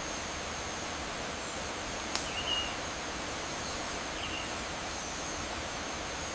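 Nature ambience: a steady hiss with a faint, thin high insect-like tone and a couple of short chirps, broken once by a sharp click about two seconds in.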